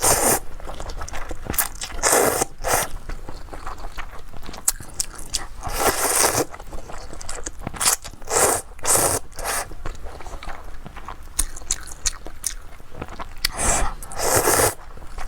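Close-up crunching and scraping in short, separate bursts a few seconds apart, with faint crackling between them.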